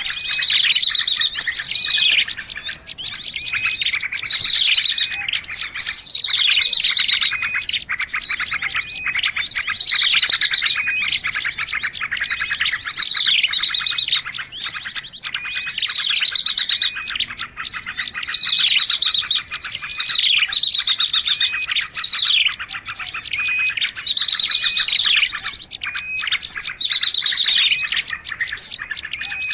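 Dense, continuous chirping and rapid trilling of small songbirds from a bird-lure recording, with a falling call phrase repeating about every three to four seconds as the track loops.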